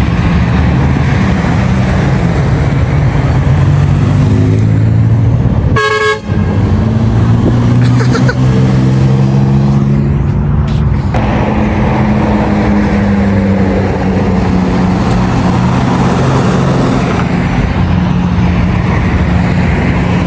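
Car engines running loud and revving as cars pull away, with pitch rising and falling. A short horn toot comes about six seconds in.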